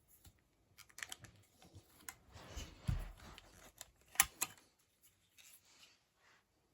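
Metallic clicks and knocks from handling a .177 Webley Hurricane break-barrel spring air pistol, with a dull thump near the middle and the sharpest click about four seconds in.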